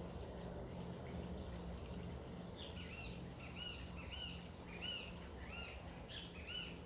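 A bird calling in a series of short, arched notes, about two a second, starting a few seconds in, over the steady trickle of running water.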